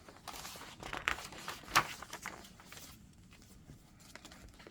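Pages of a handmade paper-and-fabric junk journal being turned and handled, rustling and crinkling, with one sharp crisp snap a little under two seconds in.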